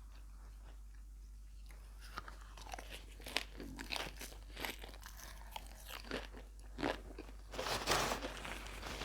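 Close-miked eating: crisp crunching bites and chewing, starting about two seconds in and coming in a quick irregular run, densest and loudest near the end.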